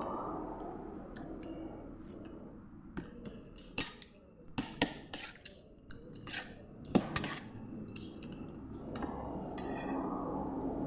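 Dishes and cutlery clinking and knocking during a meal: a run of sharp clicks a few seconds in, the loudest near the end of the run, over a low background murmur.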